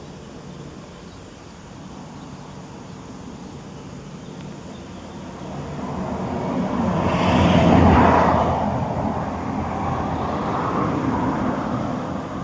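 A road vehicle passing by: a rush of noise that swells to its loudest about eight seconds in, then fades away, over a steady background hum.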